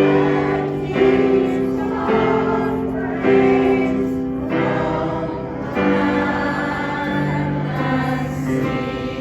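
Community choir singing a slow song in harmony, holding each chord for about a second before moving to the next.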